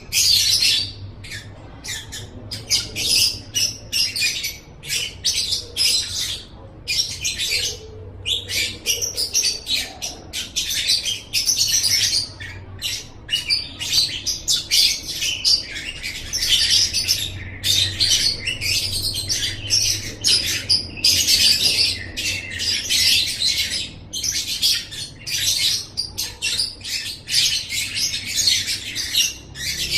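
Lovebird chattering: a fast, continuous stream of shrill squawks and chirps.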